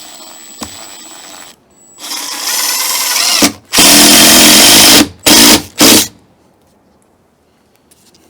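Power drill running in several trigger pulls: a softer run at first, then a run that speeds up and a long loud run of about a second, ending in two short bursts.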